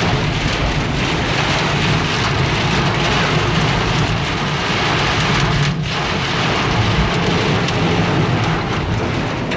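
Heavy rain pounding on a car's roof and windshield, heard from inside the cabin, with a steady low rumble underneath.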